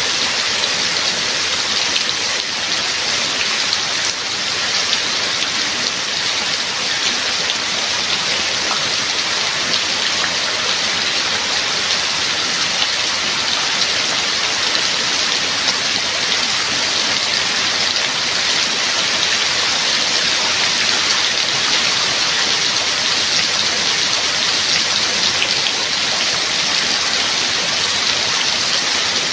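Steady heavy rain: a dense, even hiss of falling rain with many fine drop patters.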